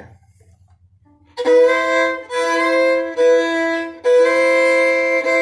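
Fiddle playing a slow double-stop passage, two strings bowed together with the first finger stopped across both strings and another finger added on the A string. It starts about a second and a half in as a string of separate, sustained bow strokes, the pitch shifting from stroke to stroke.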